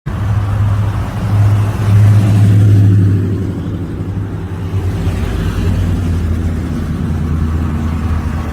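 Car engine running with a deep, steady low rumble. It swells louder for about a second and a half around two seconds in, then settles back to a steady run.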